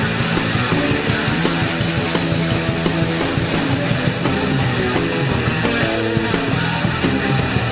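A rock band playing a song: electric guitars over a steady drum beat.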